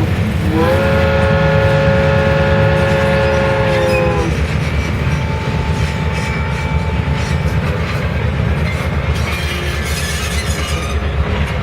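A loud horn sounding several notes at once. It breaks off briefly just after the start, then sounds again, held for about three and a half seconds, and stops. A steady low rumble runs underneath.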